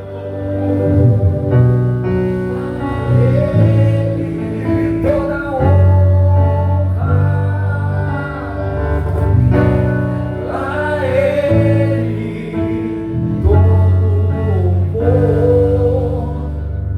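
Live band music with a singer: a slow song carried by sustained keyboard chords and bass, the vocal line wavering over them.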